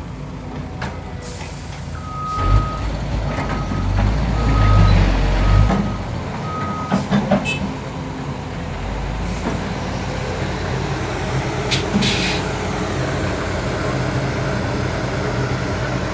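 Diesel dump truck and trailer running, the engine revving hard for a few seconds while a reversing beeper sounds about five times, with sharp hisses of released air three times. The trailer's dump body is stuck and will not lift.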